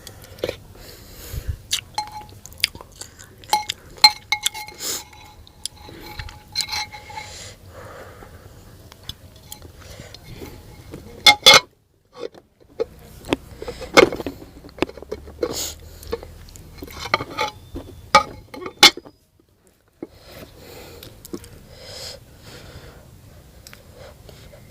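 Close-up eating sounds of noodle soup: wet chewing and slurping mouth noises with many sharp clicks and clinks, broken twice by a brief cut to silence.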